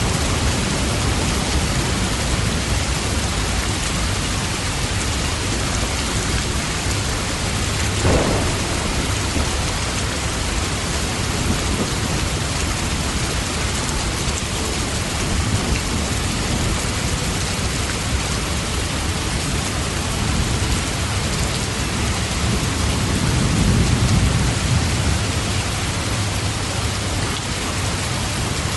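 Steady rain, an even hiss, with a low rumble of thunder swelling about two thirds of the way through and a brief sharper sound about eight seconds in.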